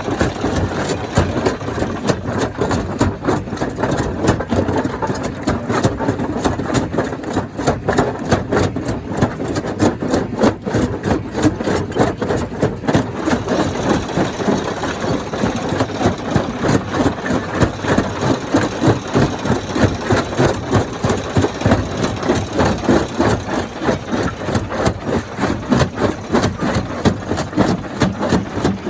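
Stone crusher plant running continuously: a steady machinery drone with a dense, irregular clatter of knocks as rock is crushed.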